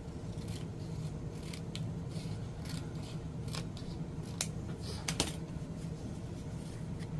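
Scissors and paper being handled at a craft table: scattered light clicks and snips, two of them louder around the middle, over the steady hum of an air conditioner.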